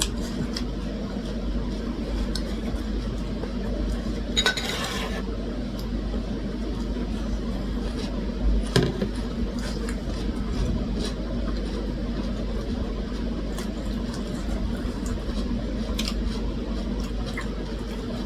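Eating at a table: occasional clinks of cutlery against dishes, with a brief rustling burst a little past four seconds in, over a steady low hum.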